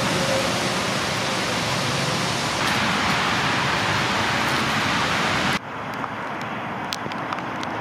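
Steady, loud hiss of rain. About three-quarters of the way through it cuts suddenly to a quieter rain patter with separate drops ticking.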